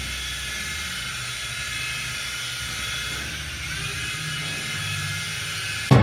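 Steady mechanical whir with a low hum underneath, like an aircraft or a motor running; music cuts in sharply right at the end.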